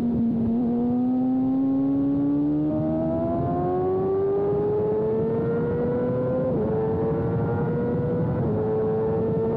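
Sportbike engine pulling hard out of a corner, its pitch climbing steadily, over rushing wind. Two short drops in pitch, about two-thirds of the way through and again near the end, are upshifts, with the engine climbing again after each.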